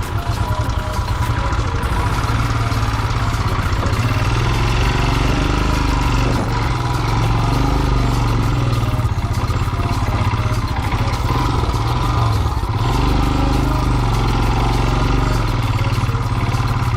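Royal Enfield single-cylinder motorcycle engine running at low speed on an off-road trail, its revs rising and falling several times.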